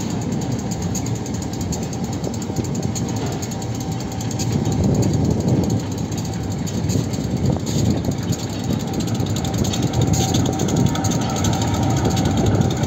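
Train rolling slowly along the track, heard from on board: a steady rumble of wheels and carriages.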